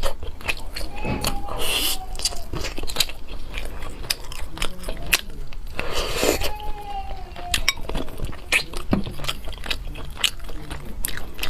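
Close-up mouth sounds of eating: bites, crunching and chewing, with many sharp wet clicks. Twice a short, slightly falling tone sounds over the chewing.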